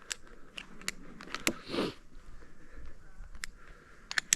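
Scattered light clicks and taps, one sharper click near the end, with a short breathy rustle about two seconds in.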